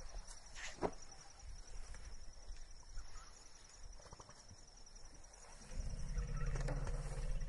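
Outdoor ambience with insects chirping steadily in a high, rapid pulse. A sharp click comes about a second in, and a low rumble starts about six seconds in and carries on to the end.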